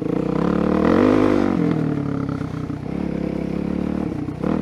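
Suzuki DR-Z400SM single-cylinder four-stroke engine running under way, revving up about a second in, easing off, then holding a fairly steady pace.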